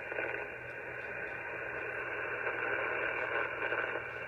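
Power line noise received on a Flex-1500 software-defined radio: a steady hiss and buzz filling the receiver's narrow voice passband, with a low hum under it, in a gap between voice transmissions.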